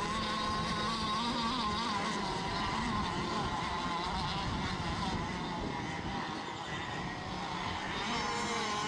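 Radio-controlled racing boats' motors buzzing out on the water, a high whine that wavers in pitch as the boats run the course.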